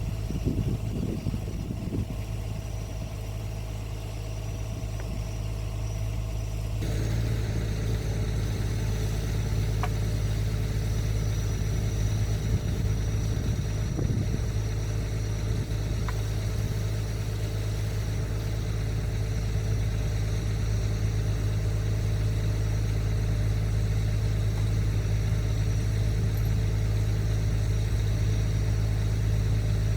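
Excavator's diesel engine running steadily, picking up and growing louder about seven seconds in, with a couple of faint clicks.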